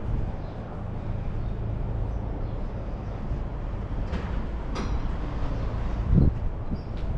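Steady low rumble of a motor vehicle running, with a few light clicks midway and a low thump near the end.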